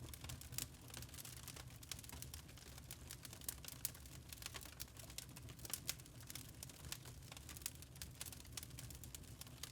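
Wood fire in a fireplace crackling: irregular small pops and snaps, a few sharper ones, over a low steady rumble.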